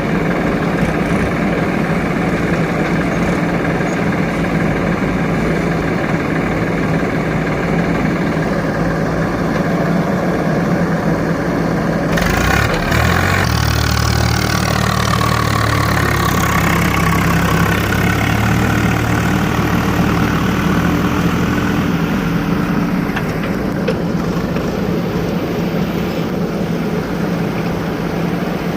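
Heavy diesel engine of working earth-moving machinery running steadily. About twelve seconds in there is a single knock, followed by a deeper, stronger engine hum that lasts about eight seconds and then drops away.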